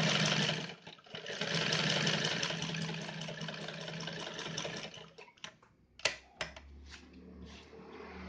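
Yamato 673 zigzag sewing machine running at speed, sewing a zigzag test stitch. It stops briefly about a second in, then runs again until about five seconds in. A few sharp clicks and knocks follow, then a low hum.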